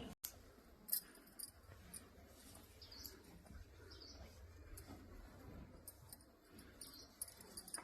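Faint, short, high-pitched squeaks from a small animal, scattered a second or so apart over low background rumble.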